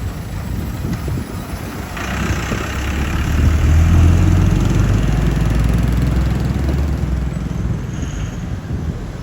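Dongfeng truck's engine running as it goes by, a low rumble that swells from about two seconds in, is loudest near four seconds, and fades after about seven seconds.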